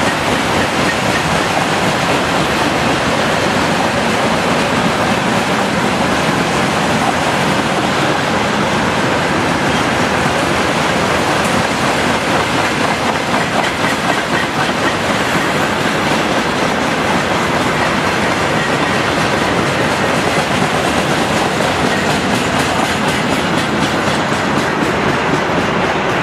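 Freight train hauled by a 2TE116 diesel locomotive running steadily at speed: a continuous, even rumble of the train and its wheels on the rails.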